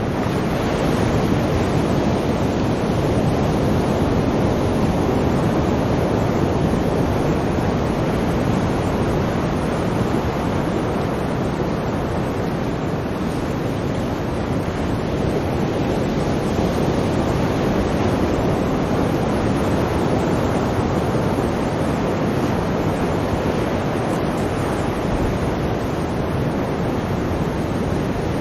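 Sea waves washing in continuously, a steady rush of surf that swells and eases slowly.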